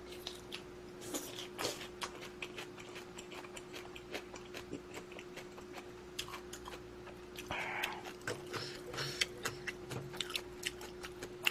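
Close-miked eating of instant budae-jjigae ramen: chewing with many short wet mouth clicks, and a longer noisy stretch a little past halfway. A faint steady hum lies underneath.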